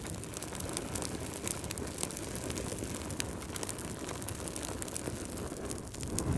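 Wood fire crackling: a steady low rush of flames scattered with many sharp pops and snaps, swelling into a low rumble near the end.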